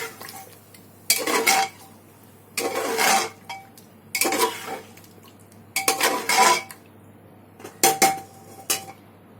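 Metal spoon scraping and clinking against a metal cooking pot while masala paste is added and stirred in, in about six separate bursts a second or two apart, with a faint metallic ring.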